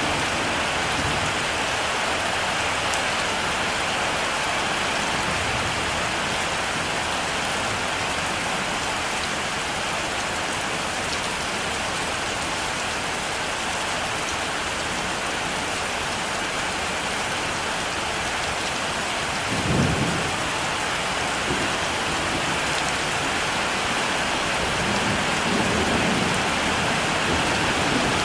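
Heavy rain falling steadily, an even hiss. About two-thirds of the way through there is a short low thunder crack, and near the end the thunder rumbles low again.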